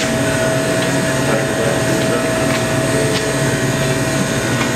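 A machine running steadily: a constant drone with a steady hum, and a few faint clicks over it.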